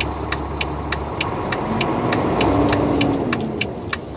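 Turn-signal flasher ticking in a truck cab, about three even clicks a second, over the steady low running of the truck's engine.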